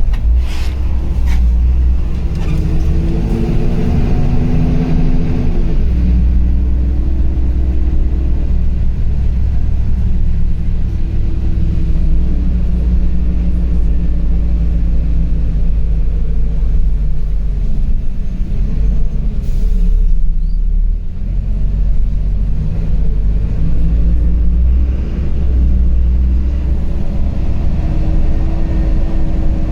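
LiAZ 5292.65 city bus heard from inside the cabin while driving: a heavy low rumble with the engine note rising and falling as the bus speeds up and slows, and a short lull about two-thirds of the way through.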